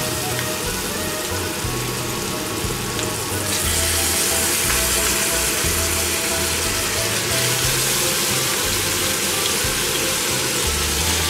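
Chicken wings sizzling as they fry in hot olive oil in a wok, a steady hiss that grows louder about three and a half seconds in as another wing goes into the oil.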